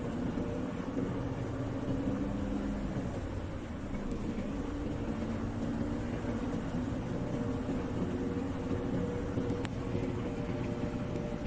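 Diesel engine of a Mercedes prime mover truck running steadily, with a brief sharp click about ten seconds in.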